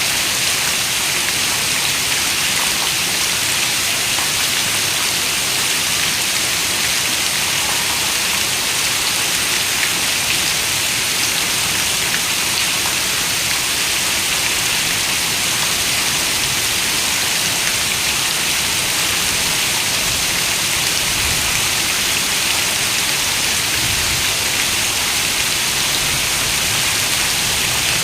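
Steady rain falling, a dense, even patter of drops with no let-up. In the last several seconds a few soft, low rumbles come through underneath it.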